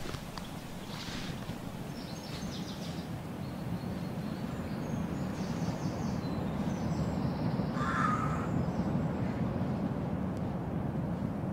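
Steady low background rumble with a few bird calls: short high chirps a couple of seconds in and again around the middle, and a harsher single call about eight seconds in.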